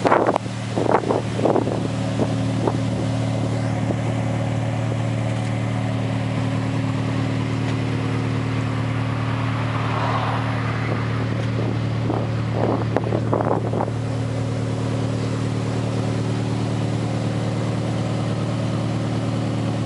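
Turbocharged Toyota 3S-GTE four-cylinder engine in a Corolla T-Sport, breathing through a Blitz Nur Spec exhaust, running at a steady idle. A few short sharper sounds rise over it in the first couple of seconds and again about two-thirds of the way through.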